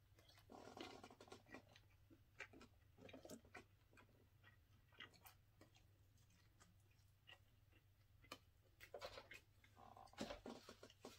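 Faint close-up chewing and mouth smacks from a person eating a chicken wing, with scattered small clicks. A soft knock about ten seconds in.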